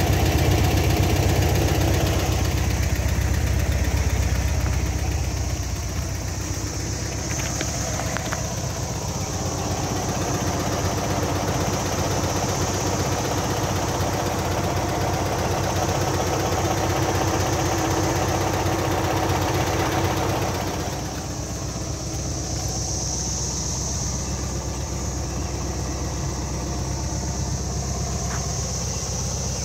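1970 Volkswagen Beetle's air-cooled flat-four engine idling steadily, a little quieter from about two-thirds of the way through.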